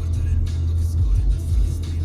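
Music with a deep, held bass line playing over a car's steady road rumble.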